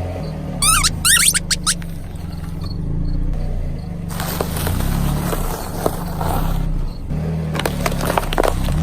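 Car engine running slowly as the tyre rolls over objects, with a few sharp rising squeaks early on and a cluster of cracking and crunching near the end as things are crushed.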